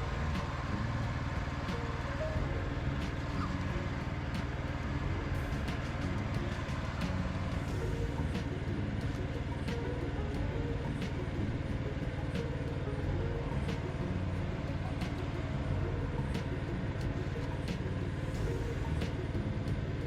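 Dzik 2 mini tractor engine running steadily at constant speed, with light sharp clicks or rattles every second or so.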